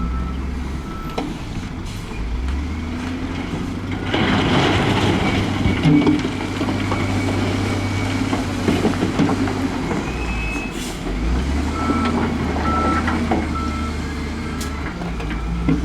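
Diesel engines of heavy earthmoving machines running, with a reversing alarm beeping at the start and again near the end. About four seconds in there is a louder rattling rush lasting a couple of seconds, from gravel or rock being moved.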